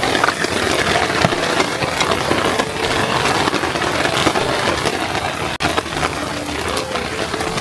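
Rain pattering steadily, a dense crackle of many small drops, with faint background music.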